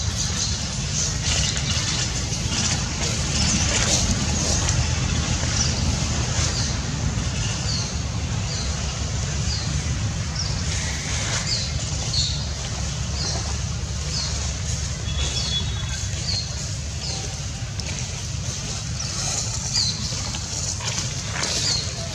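Steady low rumble with a bird repeating a short high chirp about once a second, starting a few seconds in and stopping near the end, with a few scattered clicks.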